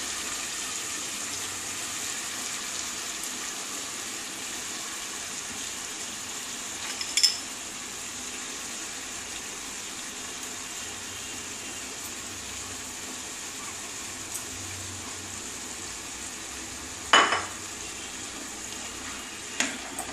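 Spice paste sizzling steadily in hot oil in a non-stick kadai as grated bottle gourd is tipped in on top of it. The paste has cooked to the point where the oil separates. A sharp utensil clatter comes about seven seconds in, a louder one near the end, and two lighter knocks just after it.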